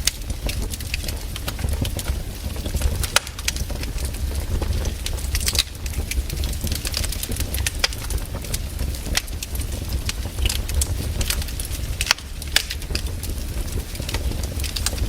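Wood fire in a fireplace crackling, with irregular sharp pops, a few louder than the rest, over a steady low rumble.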